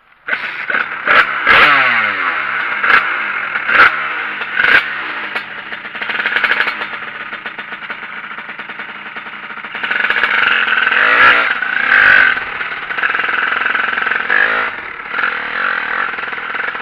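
Tuned two-stroke motorcycle engine with a Voca big-bore expansion pipe and open air filter, revving hard, its pitch rising and falling over and over as it is ridden, with several sharp throttle blips in the first few seconds.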